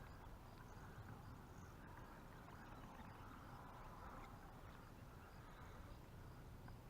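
Near silence: faint, steady outdoor background.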